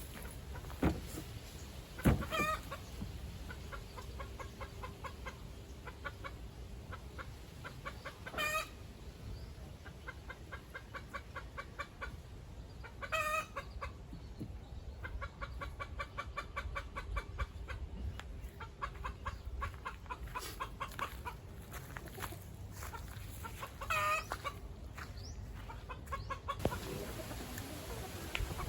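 Chickens clucking in long runs of quick short notes, with a few louder drawn-out squawks breaking in now and then. There is a sharp knock about two seconds in.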